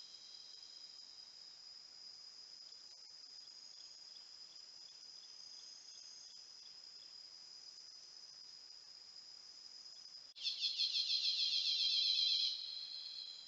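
Insect chorus: several steady, high-pitched trills. A louder, fast-pulsing trill joins about ten seconds in and stops two seconds later.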